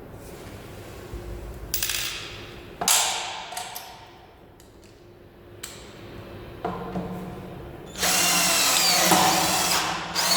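24 V cordless drill run in several short bursts, then a longer, loudest run about 8 seconds in, with its motor speed rising and falling under the trigger's variable speed control.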